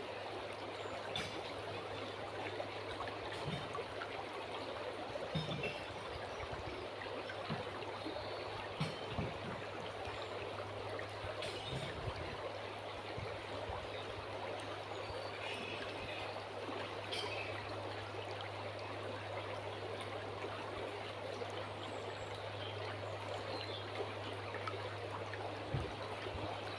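River water flowing and trickling steadily, with a few short, faint bird calls scattered through.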